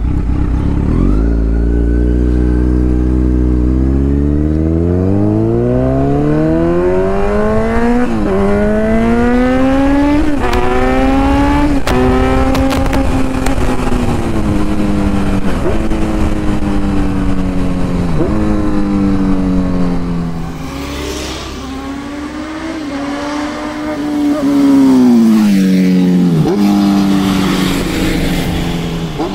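Kawasaki Z900's inline-four through an Akrapovic titanium full-system exhaust, accelerating hard up through the gears with a break in the revs at each shift. It then runs down through the revs with short blips, goes quieter, and comes back loud near the end.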